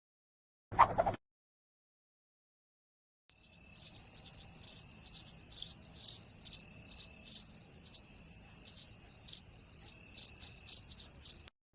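Cricket chirping sound effect, the meme cue for an awkward silence: a high, pulsing chirp at about three pulses a second, starting about three seconds in and stopping just before the end. A brief short sound comes about a second in, before the chirping.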